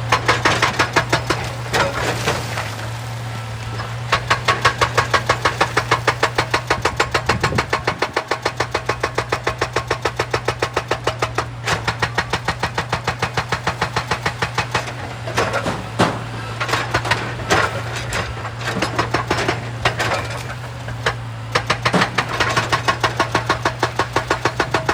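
Hydraulic rock breaker on an excavator hammering rock in long runs of rapid, evenly spaced blows, pausing briefly now and then. The machine's diesel engine runs steadily underneath.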